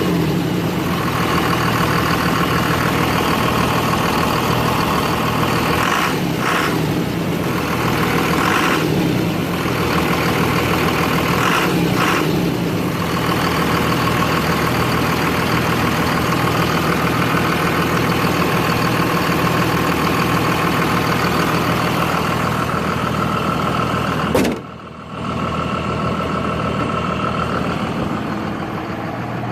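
Diesel engine of a second-generation pickup truck idling steadily after a cold start. Near the end the sound briefly drops out, then carries on a little quieter.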